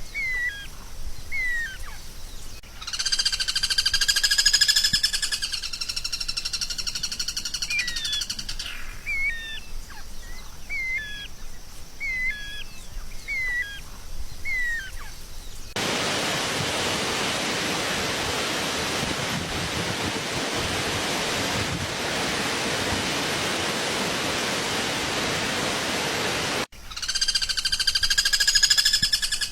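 Songbird calls: short hooked chirps repeated about once a second, broken by a loud buzzy trill with several steady pitches layered together. About halfway through, a steady hiss takes over for roughly ten seconds and cuts off abruptly, and the buzzy trill returns near the end.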